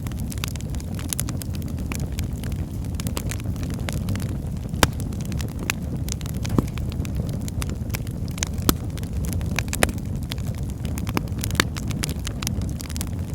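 Wood fire burning in a fireplace: a steady low rumble of flames with constant crackling and scattered sharper pops, a few louder than the rest.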